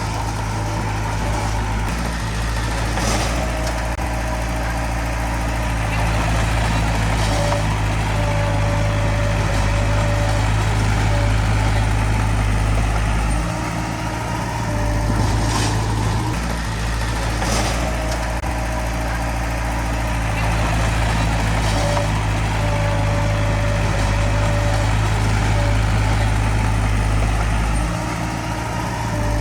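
Diesel engine of a small Komatsu D20P crawler bulldozer running steadily, getting louder twice for several seconds at a time, with a thin tone that comes and goes.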